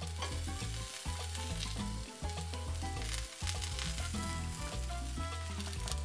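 Hashbrown omelette sizzling and crackling in a hot non-stick frying pan as it is folded with spatulas, over background music with a steady bass line.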